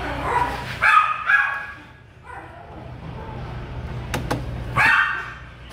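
A dog barking: a quick double bark, then another bark near the end, with a couple of sharp clicks in between and a steady low hum underneath.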